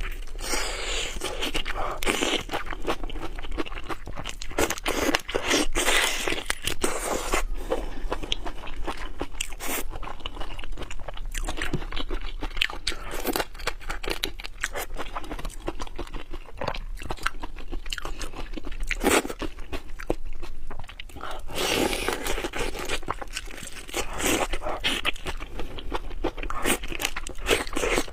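A person eating close to the microphone, with crunchy bites and wet chewing going on continuously. The clusters of crackles are heavier near the start and again toward the end.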